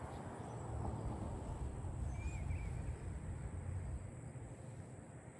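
A songbird gives one short chirping call a little over two seconds in, over a steady low rumble of background noise.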